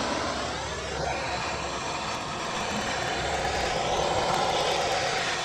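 Bernzomatic hand torch flame burning steadily, an even rushing hiss, while it preheats thick steel before welding.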